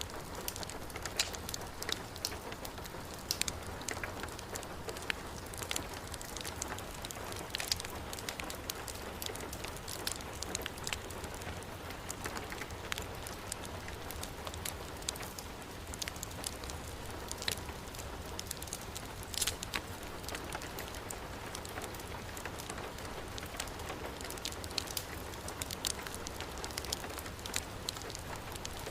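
Steady heavy rainfall mixed with a wood fire burning in a fireplace, sharp crackles and pops breaking out irregularly over the even hiss of the rain.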